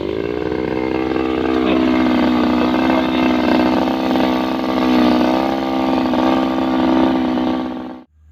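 Two-stroke brush cutter engine running at high revs with a nylon-line trimmer head spinning, its pitch wavering a little as it holds speed; the sound cuts off suddenly near the end.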